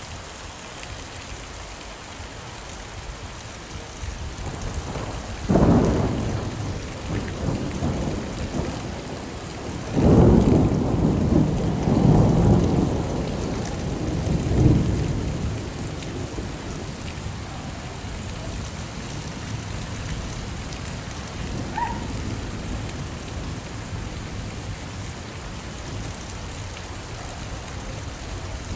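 Steady rain falling, with thunder. A sharp clap comes about five seconds in, and a longer rolling rumble follows from about ten to fifteen seconds in.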